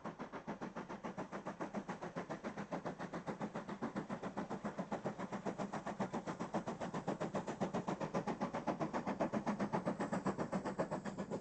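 0-6-0 steam locomotive working under steam, its exhaust beating in a rapid, even rhythm of chuffs.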